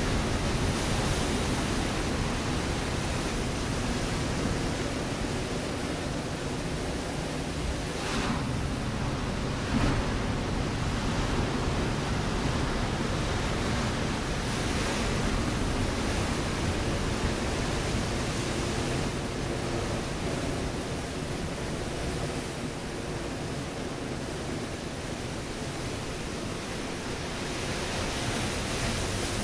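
Ocean surf breaking on a rocky shore: a steady wash of roaring water that swells and eases, with a brief louder splash about ten seconds in.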